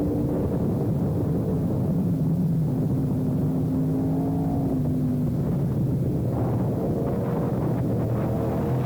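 Sportbike engines running at speed on the road, their pitch holding steady and then dropping about five seconds in, with revs climbing again near the end.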